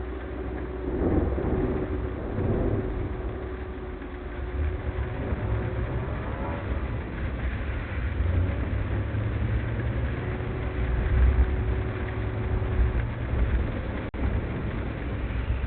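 A car driving along, a steady low rumble of engine and road noise with the loudness swelling and easing, and a faint steady tone in the first few seconds and again later.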